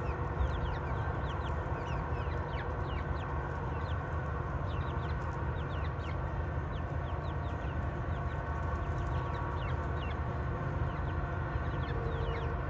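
A flock of backyard hens clucking, with many short, high, falling calls scattered throughout as they chase one hen carrying a tomato.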